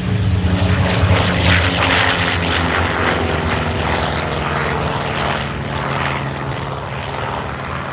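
Vought F4U Corsair's Pratt & Whitney R-2800 radial engine at full power on a low pass, its note dropping slightly in pitch and fading as the plane goes by.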